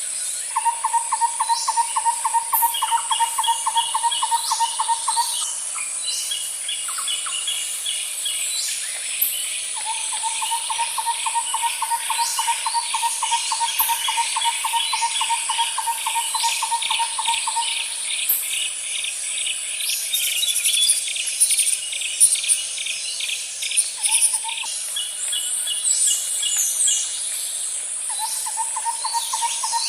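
Nature soundscape of birds and insects: a steady high insect buzz under repeated long, even trills lasting several seconds each, with faster chirping series and scattered short high calls over them.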